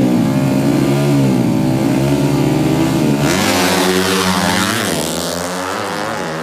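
Drag-racing motorcycle engines revving, several pitches rising and falling at once. About three seconds in a loud hiss joins and the engine pitch sweeps down, then settles lower and quieter near the end.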